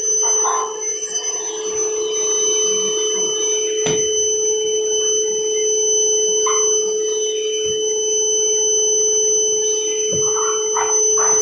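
Vacuum cleaner running with a steady whine, picking up dirt and debris from a subfloor: short rattling, scraping bursts as grit goes up the nozzle, and one sharp click about four seconds in.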